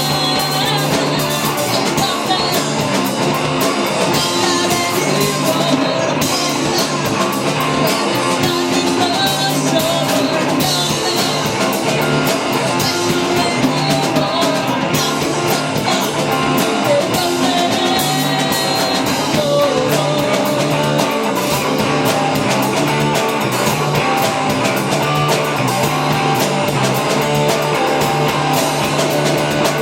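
Live rock band playing, with electric guitar, drum kit and singing.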